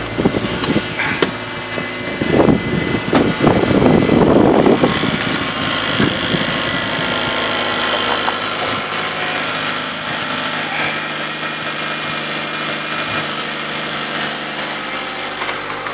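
Renault Laguna's K4M 1.6-litre 16-valve petrol engine idling just after a cold start at −26 °C. A louder, uneven noise rises over it about two to five seconds in.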